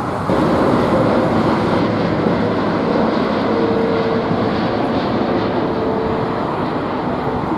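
Jet airliner engines running loud and steady as the aircraft passes, with a steady whine from about three seconds in.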